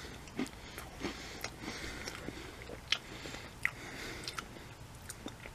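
A person chewing Pringles Mingles puffed snacks with the mouth, irregular faint crunches a few times.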